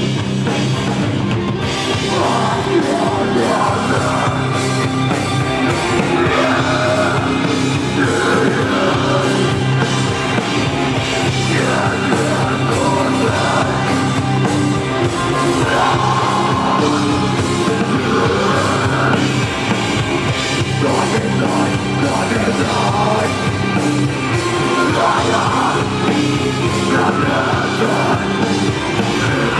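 Live rock band playing loud, with sustained instrumental notes throughout and a singing, shouting voice that comes in about two seconds in.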